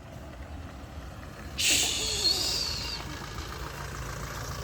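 A sudden loud hiss of air about a second and a half in, fading over about a second and a half, over a vehicle engine idling low.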